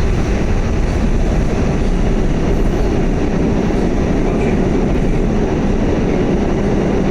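Pullman-Standard R46 subway car running on the line, heard from on board: a steady, even rumble of wheels and running gear, with no clear clatter or squeal.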